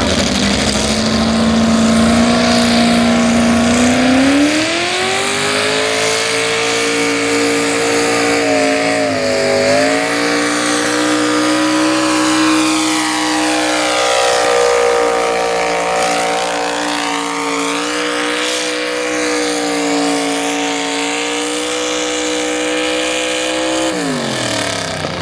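Truck-pull pickup's engine at full throttle hauling a pulling sled. The revs climb about four seconds in, hold high with a brief dip near ten seconds, then drop away sharply near the end.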